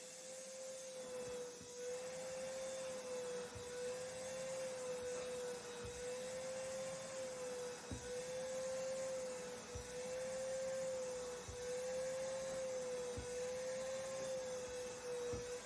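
A steady, fairly high-pitched hum on one note, wavering slightly in pitch at an even slow pace, with a few faint soft knocks beneath it.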